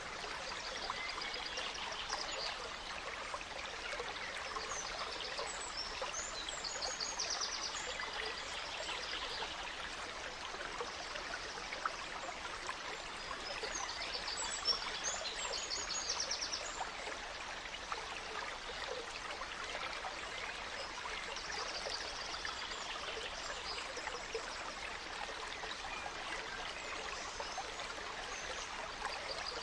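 Gentle stream running steadily with a trickling, babbling sound, while forest birds sing high chirps and trills in clusters every few seconds.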